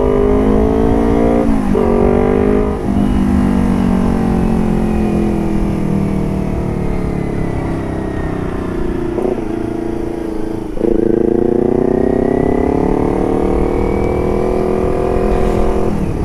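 Motorcycle engine running through an aftermarket carbon exhaust while riding. The note drops briefly a few times, around 2, 3, 9 and 11 seconds in, sinks slowly through the middle, and climbs again near the end.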